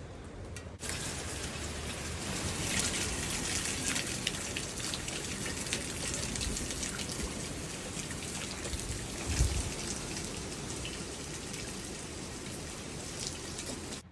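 Steady rain falling, with many individual drops striking close by. It gets suddenly louder about a second in, and there is a brief low thump about nine seconds in.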